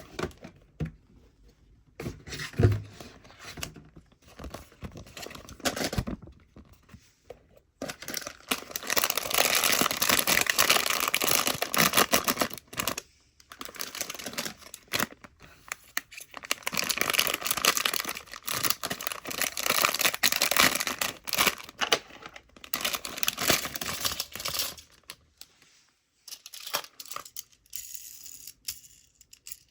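Toy packaging being handled and opened by hand: tearing and crinkling, in two long stretches with scattered light clicks and taps between them.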